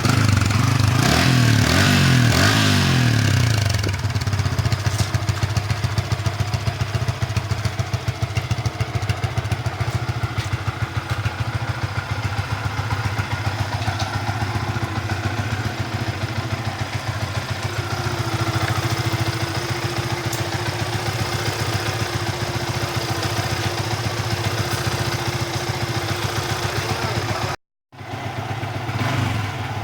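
Yamaha Vixion single-cylinder motorcycle engine running through its stock exhaust, blipped up and back down in the first few seconds, then idling steadily with an even pulse. The sound drops out for a moment near the end.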